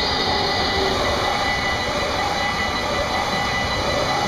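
Electric multiple-unit passenger train passing close by at speed: a steady rolling rush of wheels on rail with a thin, steady high whine over it.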